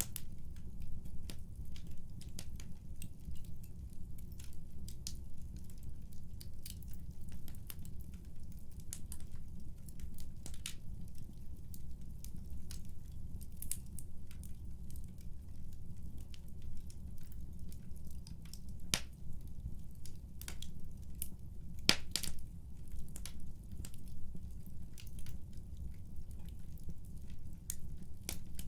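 Wood fire crackling in a fireplace: irregular sharp pops and snaps over a low steady rumble of burning. One snap about three-quarters of the way through is louder than the rest.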